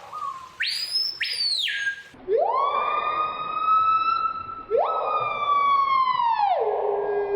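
Siren-like wailing: a short high whoop, then two long wails that each sweep up, hold, and slowly fall away.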